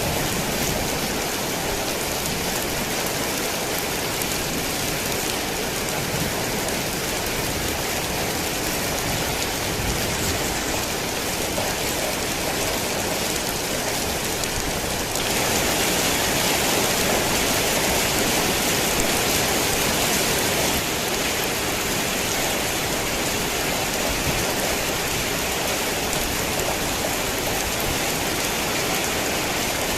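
Heavy rain falling steadily, a dense even hiss of drops on surfaces. It grows louder and brighter for about six seconds around the middle, then settles back.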